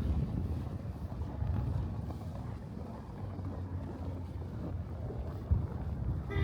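Wind buffeting the microphone as a fluctuating low rumble, with a single sharp knock about five and a half seconds in.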